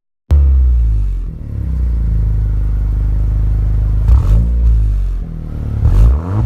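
Honda Civic Si's turbocharged four-cylinder engine running through a Greddy Supreme SP exhaust: it idles steadily after a moment of silence, then is revved in two short blips, about four and six seconds in.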